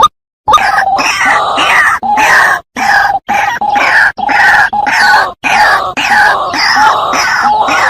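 White-breasted waterhen (ruak-ruak) calling: a loud, harsh, rapidly repeated croaking run that starts about half a second in and goes on with a few short breaks.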